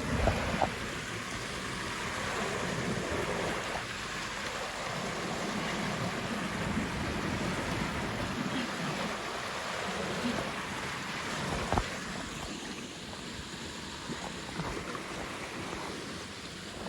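A steady rush of water, with a sharp knock right at the start and another about two-thirds of the way through.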